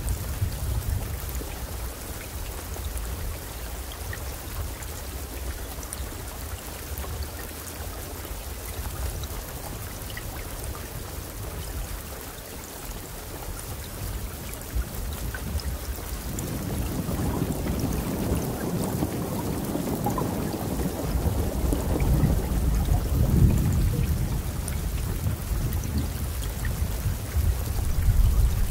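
Steady rain falling, with a low rumble of thunder under it; about halfway through a long roll of thunder swells up, loudest about two thirds of the way in, and then slowly dies away.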